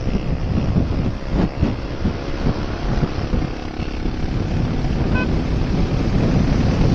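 Wind buffeting the microphone of a moving motorcycle, with the engine and road noise running underneath at a steady pace.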